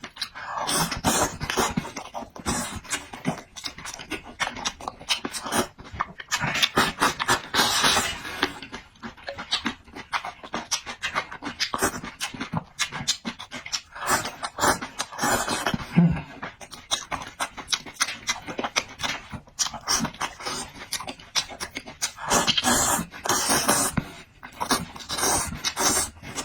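Close-miked mouth sounds of eating: loud wet chewing and smacking that comes in bursts of rapid clicks, with short breaths between mouthfuls.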